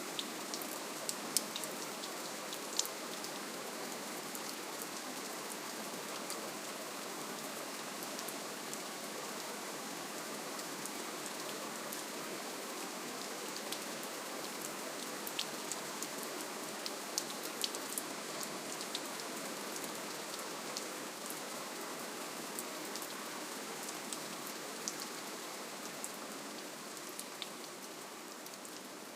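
Steady rainfall: an even hiss of rain with many individual drops ticking sharply here and there, easing a little near the end.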